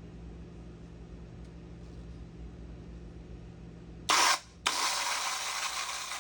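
Water rushing out of a refrigerator's opened water line, downstream of the water valve, when the door dispenser is pressed: a short gush about four seconds in, a brief break, then a steady flow for about a second and a half that cuts off sharply. The flow shows good water pressure reaching the line. A low steady hum runs underneath beforehand.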